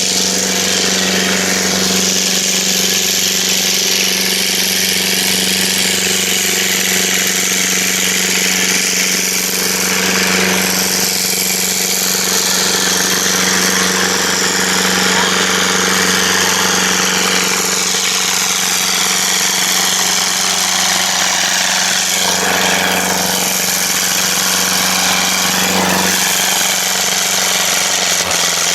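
Ferguson tractor engine running steadily at an almost constant speed, with a hiss of noise over it.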